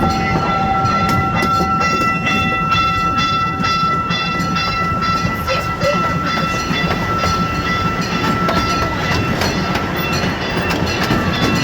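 Boardwalk ride train running along its track, heard from on board: a steady rumble with repeated clicking from the rails and a steady high-pitched tone that fades out about nine seconds in.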